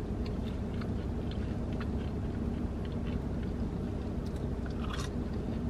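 A person chewing and biting French fries, with faint small crunches and mouth clicks scattered through, over a steady low hum in the car.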